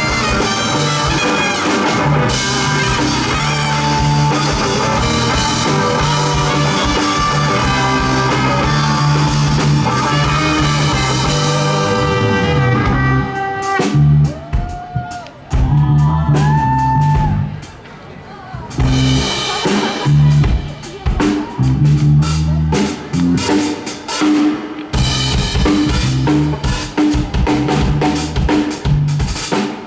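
Live rock band playing. A full band sound thins out about halfway, leaving a few sliding notes, then a drum kit and bass groove with snare hits and short stops takes over.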